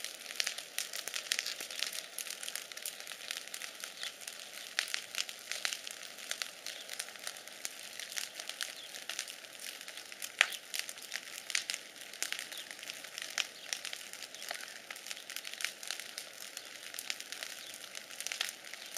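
Bonfire crackling with irregular pops and snaps, one sharper pop about ten seconds in.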